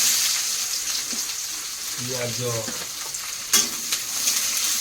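Chopped onions sizzling loudly in hot oil with whole spices in a cooking pan, stirred with a spatula, which clinks against the pan a few times about three and a half seconds in.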